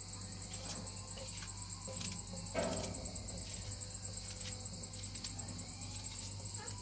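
Crickets chirping steadily in a fast, even pulse, with a brief rustle or clatter about two and a half seconds in.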